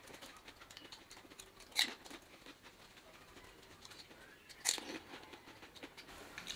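Faint chewing and crunching of a mouthful of pani puri, the crisp fried semolina shells breaking up, with two sharper crunches about two seconds in and near the end.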